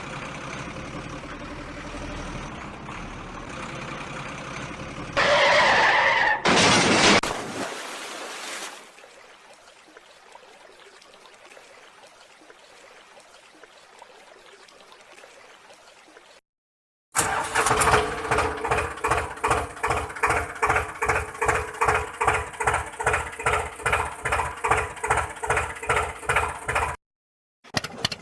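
Tractor engine sounds in hard-cut pieces: a steady engine sound, a couple of loud bursts, a quiet stretch, then about ten seconds of a diesel tractor engine chugging in a steady rhythm of two to three beats a second.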